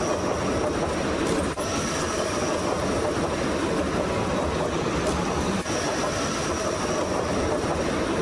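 Train running along the rails: a steady rumble of wheels and track noise with a thin high whine over it.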